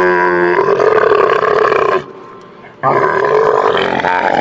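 Camel calling: two long, loud groans with a short break about two seconds in.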